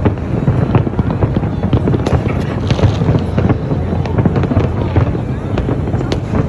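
Fireworks display going off in a rapid, continuous barrage: many sharp bangs and crackles over a constant low rumble.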